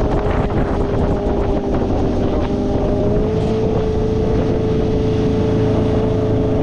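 Motorboat engine running steadily under way, its tone edging slightly higher about three seconds in, with wind on the microphone.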